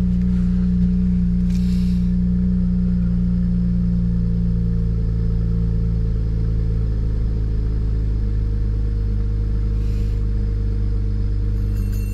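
BMW 335i's N54 twin-turbo inline-six idling steadily, running on freshly fitted NGK spark plugs.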